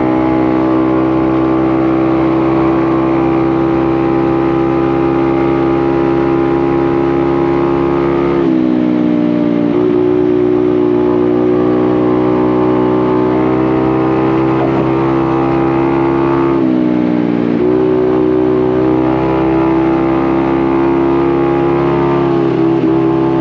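Honda Navi's small single-cylinder engine through a Vance & Hines exhaust, held at full throttle in a steady drone. Twice, about 8 seconds and 17 seconds in, the pitch dips briefly and climbs back up.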